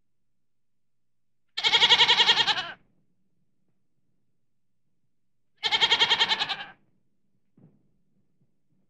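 Mouflon ram bleating twice, each call a quavering bleat a little over a second long, about four seconds apart.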